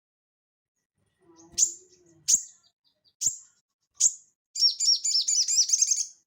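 Little spiderhunter (sogon) singing: four sharp, high single notes about a second apart, then a rapid warbling run of quick up-and-down notes for about a second and a half near the end.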